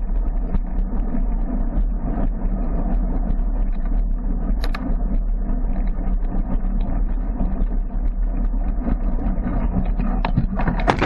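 Steady engine and road noise from a moving car, with a strong low hum, heard from inside the vehicle. A short sharp click comes about halfway through.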